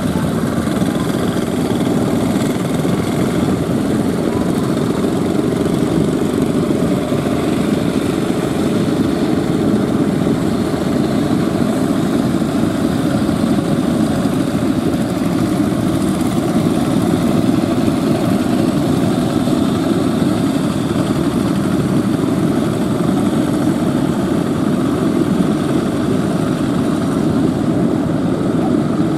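Fishing boat engines running steadily, a continuous rough engine drone.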